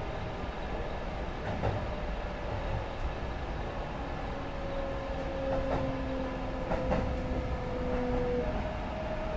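Sanyo Railway 6000 series electric train running on the line, heard from the cab: a steady rumble of wheels on rail with a few clacks over rail joints. A thin whine slowly falls in pitch, then jumps back up near the end.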